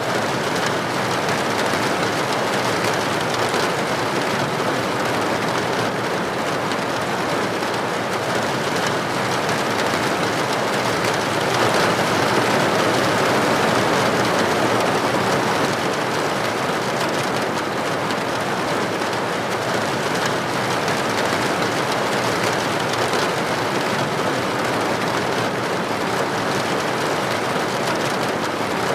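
Steady rain falling, an even hiss of drops, swelling a little around the middle.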